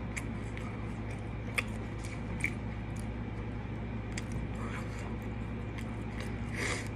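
A person chewing a mouthful of a fast-food chicken sandwich with lettuce, with small wet clicks and smacks of the mouth, over a steady low hum.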